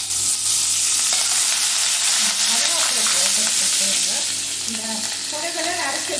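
Cumin seeds and curry leaves sizzling hard in hot oil in a pan as a tempering: the cumin is spluttering. A spatula stirs through them at the start. The sizzle eases a little after about four seconds.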